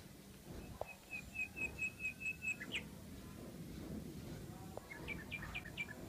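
A small bird chirping: a run of about eight quick, even notes that ends in an upward flick, then a few short chirps near the end.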